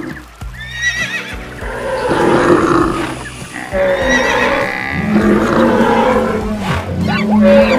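Layered animal-call sound effects: a horse whinnying about a second in and again about four seconds in, then long low drawn-out calls from other animals in the second half.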